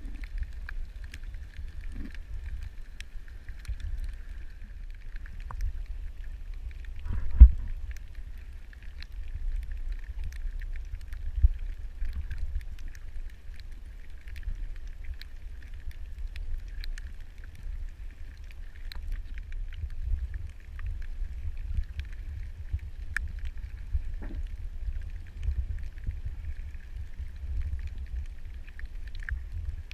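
Underwater ambience picked up through a camera housing: a steady low rumble with a faint hiss and scattered faint clicks. A sharp thump comes about seven seconds in, and a smaller one a few seconds later.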